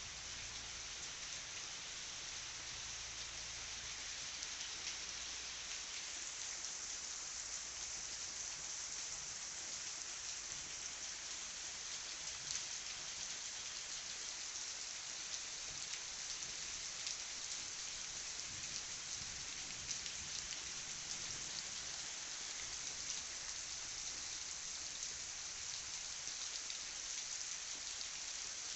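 Heavy rain falling steadily: a dense, even hiss with the fine patter of individual drops striking surfaces.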